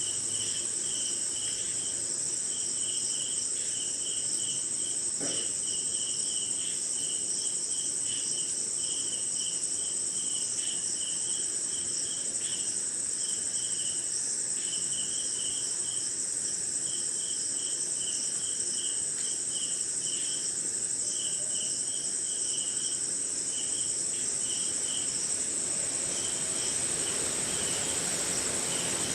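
Night chorus of crickets and other insects: a steady high-pitched continuous trill, over which rapid pulsed chirping comes in short runs with brief gaps.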